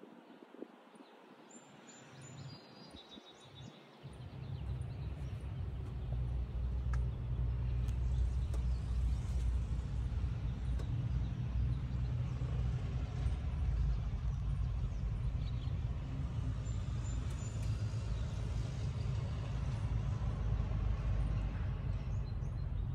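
A few faint bird chirps, then about four seconds in the Honda Civic SiR's B16A DOHC VTEC four-cylinder engine comes in, running at a steady low idle.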